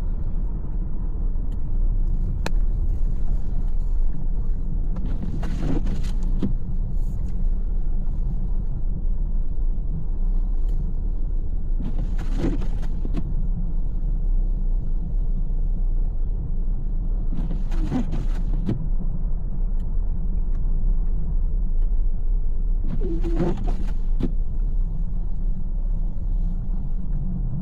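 Steady low rumble of a car driving, heard from inside, with a brief swish about every six seconds, four times in all.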